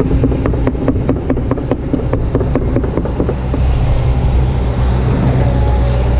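Kobelco SK200-8 excavator's diesel engine running steadily under work, with a fast, even clicking, about six clicks a second, through the first three and a half seconds.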